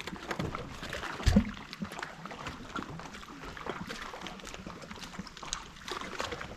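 Choppy water lapping and slapping against the hull of a small fishing boat drifting in the wind, with scattered light knocks and one dull thump about a second in.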